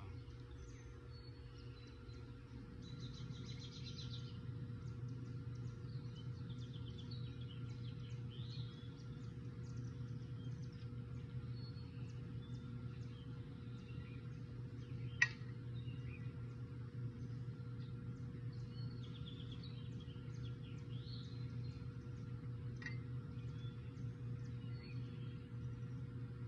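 Birds chirping here and there over a steady low hum, with one sharp click about fifteen seconds in and a fainter click near the end.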